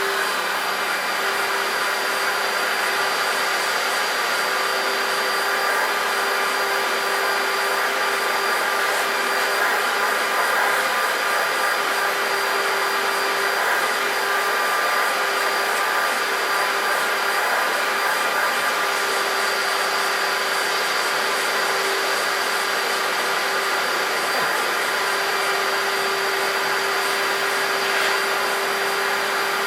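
Electrolux Contour Z1501 upright vacuum cleaner with a 1300 W motor running steadily: an airy rush with a constant mid-pitched whine and a faint high whistle.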